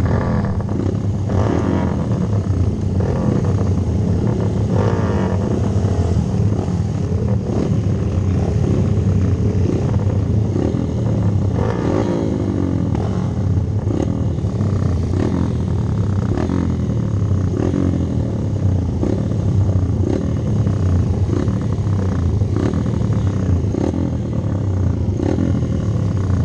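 A rally-built Hero Impulse dirt bike's single-cylinder engine running hard under way, its revs rising and falling over and over as the throttle is worked and gears change.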